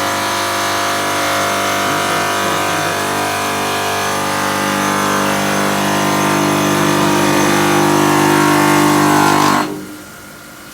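Stone-cutting machine running its blade through stone, a loud steady whine of many tones that grows a little louder. About a second before the end it drops suddenly to a low hum as the cut finishes.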